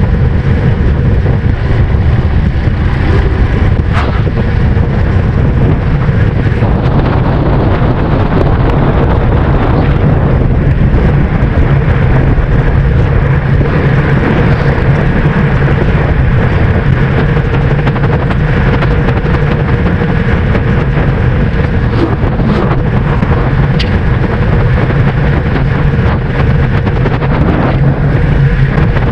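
Steady low wind rumble buffeting the microphone of a camera carried on a bicycle moving at speed, with a faint steady hum.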